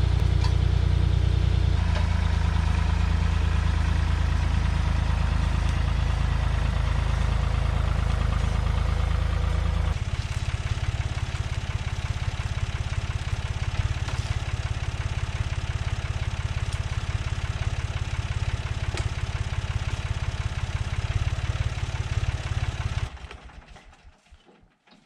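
Farm tractor engine running steadily, changing speed about two seconds in and again about ten seconds in, then shut off near the end and running down over about a second.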